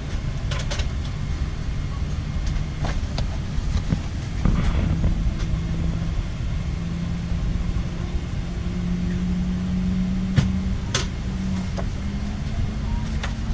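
Jet airliner cabin noise: a steady low rumble with a hum that rises in pitch in steps from about four seconds in, and a few short clicks.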